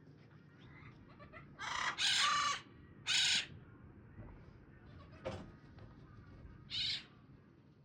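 Macaws giving harsh, raucous squawks: a long one about a second and a half in, a shorter one just after three seconds, and a last one near the end. A single sharp click falls between them.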